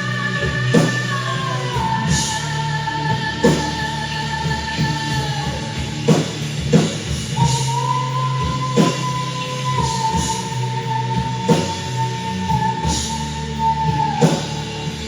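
Rock band playing live: a sustained lead line holding long notes with a slow bend, over steady drums and bass.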